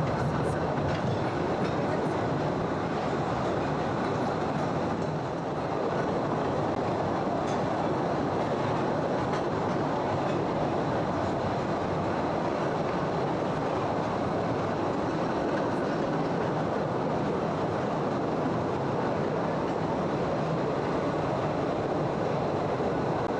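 Postojna Cave's narrow-gauge tourist train running steadily, heard from aboard: the continuous noise of the wagons and wheels on the rails, with a few faint clicks in the first couple of seconds.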